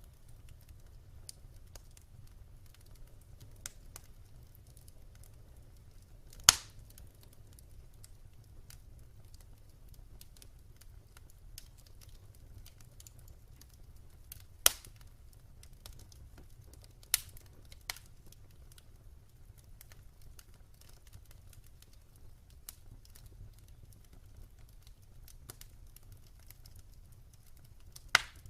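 Wood fire burning in a fireplace: scattered small crackles over a low steady rumble, with a few loud sharp pops from the burning logs, the loudest about six seconds in.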